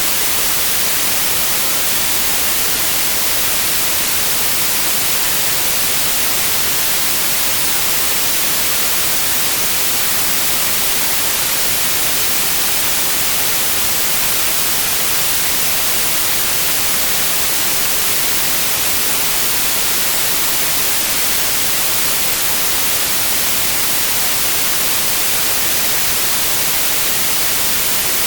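Steady white noise: an even, unchanging hiss across the whole range, brightest in the treble, with no changes throughout.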